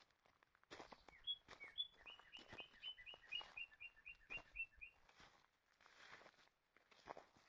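Footsteps along a forest trail. A songbird sings a quick run of about a dozen repeated notes, starting about a second in and stopping about five seconds in.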